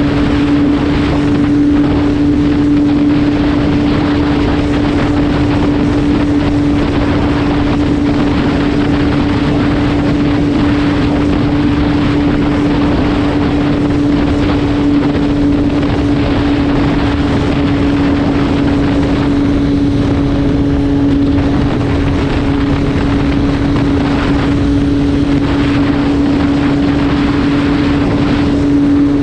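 MV Agusta F3 675 three-cylinder engine running at a steady road speed, its note holding one pitch, with wind rushing over the microphone.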